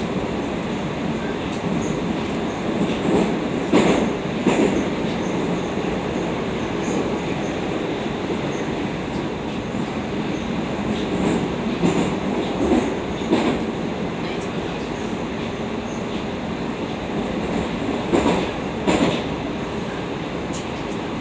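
Moscow Metro 81-760/761 'Oka' train running between stations, heard from inside the car: a steady rumble of wheels and motors, with a few pairs of knocks as the wheels cross rail joints.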